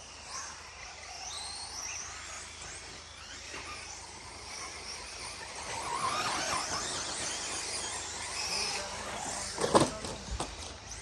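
Several 4x4 short course RC trucks racing, their electric motors whining and sliding up and down in pitch as they speed up and slow down. There is a sharp knock about ten seconds in.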